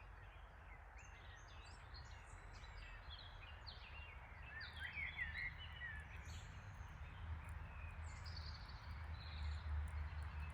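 Songbirds chirping and singing in quick, varied notes, busiest in the first half and sparser later, over a steady low rumble that swells slightly near the end.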